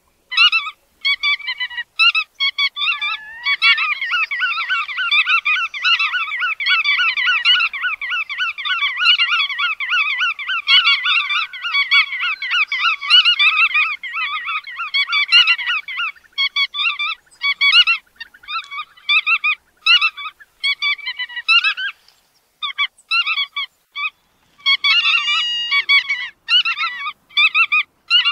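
Bar-tailed godwits calling: rapid runs of short repeated calls that thicken into a continuous flock chatter from a few seconds in until about halfway, then break up into short separate bursts.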